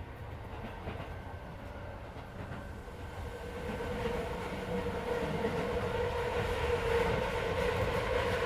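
Running sound inside a Keisei 3400 series electric train car: a steady rumble of wheels on rail. About three seconds in it grows louder and a steady whine from the drive gear comes up over it.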